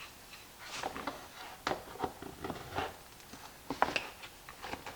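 Tin snips cutting through sheet material in a run of sharp, irregular snips and clicks, starting about a second in.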